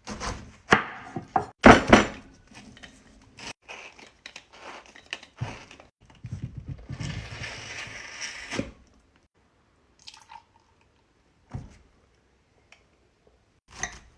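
Knife cutting through a fresh pineapple on a wooden cutting board: several sharp knocks, then a few seconds of crunching through the fibrous fruit, then a few light clicks.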